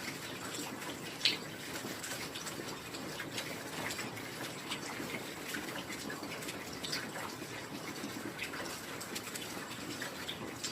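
Heavy rain falling steadily, an even wash of noise with many separate drops landing close by; one sharper drop stands out about a second in.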